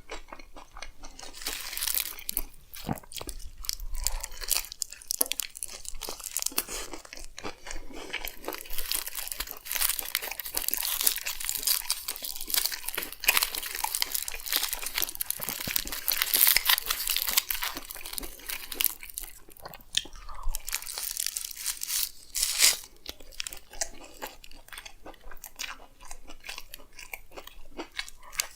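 Close-miked chewing and biting of a chicken frankie wrap: rapid irregular wet crunching and smacking, busiest through the middle and thinning out near the end.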